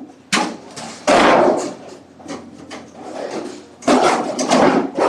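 A series of irregular knocks and bangs, hard objects striking, the loudest about a second in and again about four seconds in.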